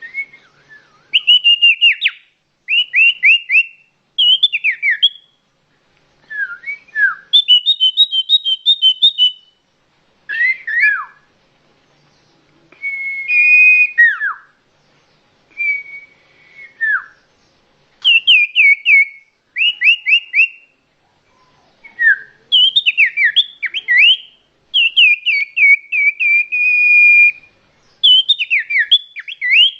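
Common iora (cipoh) song: clear, loud whistled phrases, many notes sweeping quickly downward and some held steady, repeated in bouts with short pauses between.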